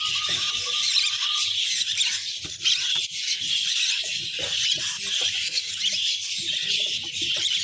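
Many caged lovebirds chattering at once in a dense, continuous high-pitched din, with scattered short knocks underneath.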